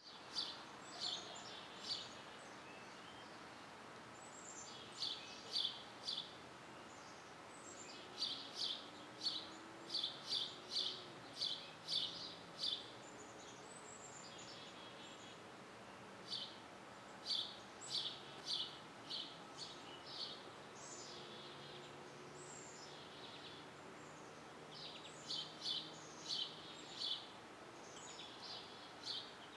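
Birds chirping: short, high chirps in quick clusters of several notes every second or two, with a few quieter stretches, over a faint steady background hiss.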